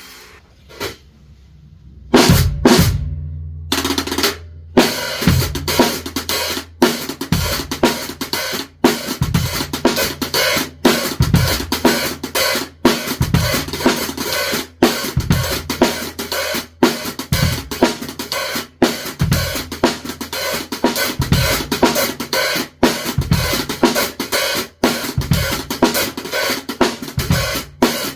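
Drum kit played as a steady groove of kick drum, snare and cymbals. It starts with a few scattered hits about two seconds in, then settles into an even beat.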